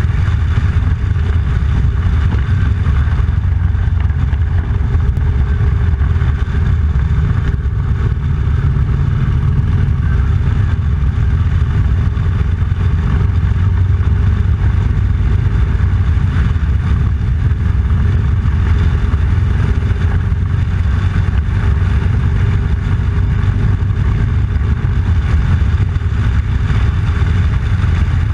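Motorcycle running steadily on the road: a loud, even low rumble with the engine note drifting only slightly.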